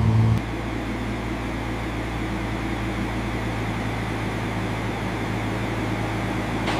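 A steady low mechanical hum with an even hiss over it. A louder, deeper drone cuts off abruptly just after the start.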